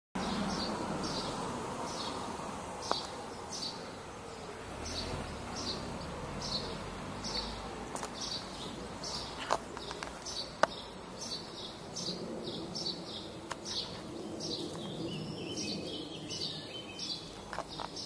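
A bird chirping a short high note over and over, about once or twice a second, over steady outdoor background noise. A few faint clicks come through.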